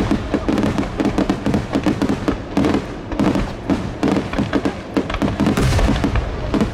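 Aerial fireworks bursting in quick succession close by, a dense run of sharp bangs and crackling, with music playing underneath.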